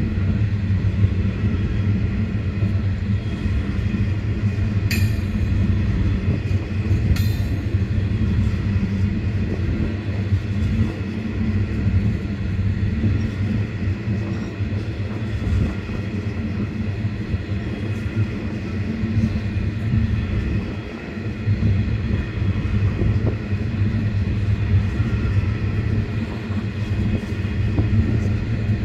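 Empty coal train passing: a steady, continuous low sound of the train running by, with two brief sharp, high-pitched metallic sounds a couple of seconds apart in the first quarter.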